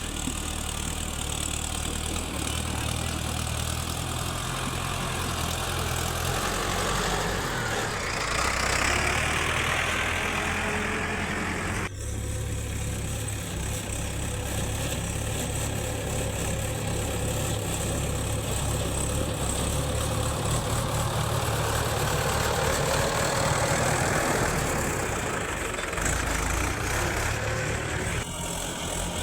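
Diesel engine of earth-moving machinery running steadily, swelling louder twice as it works under load.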